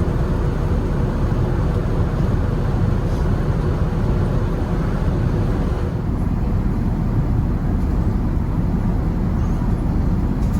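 Steady rumble and rush of airliner cabin noise aboard an Airbus A380, engine and airflow noise, with the higher hiss thinning slightly about six seconds in.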